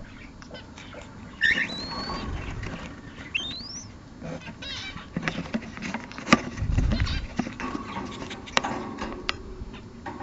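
Caged pet birds, such as cockatiels and Fischer's lovebirds, calling: a few short rising whistles and a brief warble in the first half. Scattered clicks and rustling run underneath.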